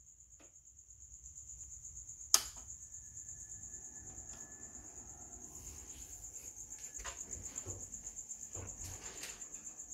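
A Smiths Radiomobile 1070 car radio playing through its speaker with no station tuned in. A loud click comes about two seconds in, then static and hiss build with faint whistles and crackles. A steady, high, pulsing whine runs throughout.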